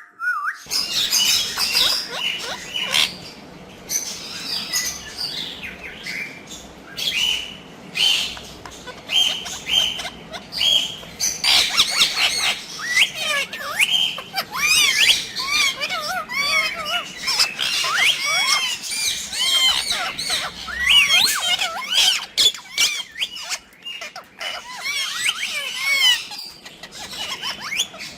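A group of ringneck parakeets calling: short repeated chirps at first, then from about halfway through many overlapping chirps and squawks at once.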